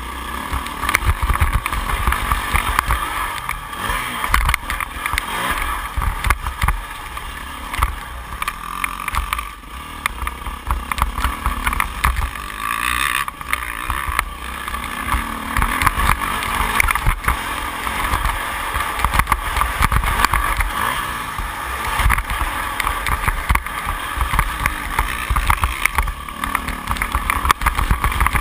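2008 Yamaha YZ450F's four-stroke single-cylinder engine running hard through a motocross lap, its level rising and falling, picked up by a GoPro HD in its housing with heavy wind buffeting and low thumps.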